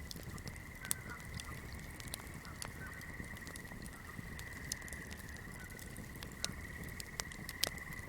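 Swamp night chorus: a steady high trill that runs throughout, with sharp, irregular crackles of a burning fire over it.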